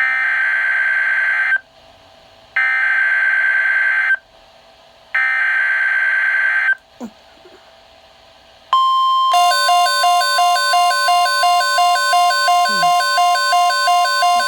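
NOAA Weather Radio emergency alert: three bursts of the digital SAME header, a buzzy data screech lasting about a second and a half each, with short pauses between. About nine seconds in, the steady weather-radio warning alarm tone starts, joined almost at once by a rapid beeping alert about three times a second.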